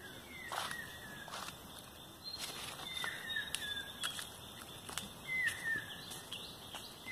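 Birds calling in short whistled notes that slide downward, several in quick runs, with footsteps on a paved path beneath them.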